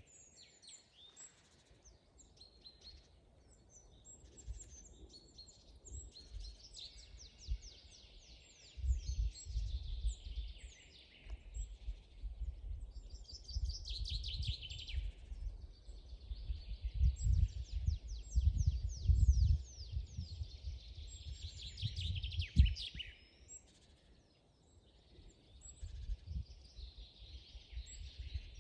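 Several forest songbirds singing at once: overlapping fast trills and chirps. Under them, gusts of low rumble come and go, loudest around ten, eighteen and twenty-two seconds in, and briefly drop away shortly before the end.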